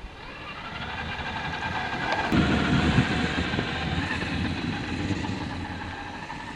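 1/10-scale RC trophy truck's brushless electric motor whining as it drives through snow, rising in pitch and loudness as it closes in. It is loudest about two and a half seconds in, with a low rumble from the tyres, then fades as it pulls away.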